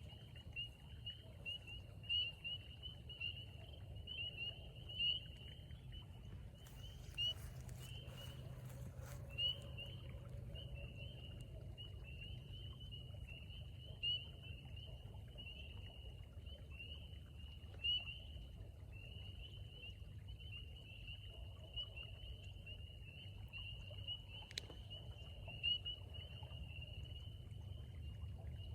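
Chorus of spring peepers: many short, high peeps overlapping into a continuous chorus, with a nearer frog's louder peep standing out every few seconds. A steady low rumble runs underneath.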